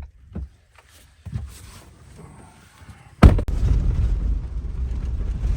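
A few short knocks, then about three seconds in a vehicle engine starts with a sudden loud onset and settles into a steady, loud, low running sound.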